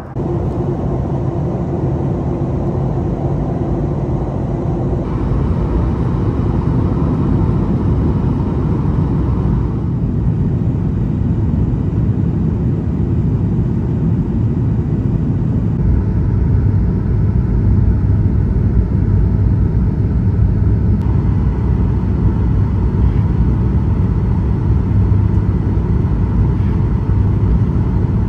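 Steady engine and airflow noise inside the cabin of a Boeing 737-900ER descending to land. The noise is loud and low, and its tone shifts abruptly several times, about every five seconds.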